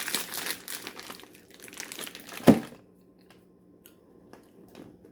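Plastic snack packaging crinkling as it is handled, with one short, loud sound about two and a half seconds in; after that only a few faint clicks.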